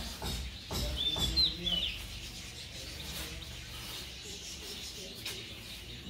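A small bird calling once, about a second and a half in: a short high note followed by quick falling chirps. There is faint rustling in the first second.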